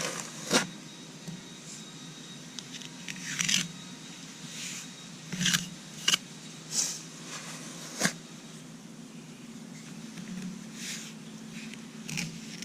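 Trowel scraping and pressing a dry sand-and-Portland-cement patching mix onto the vertical face of a concrete step, in short irregular strokes, over a low steady hum.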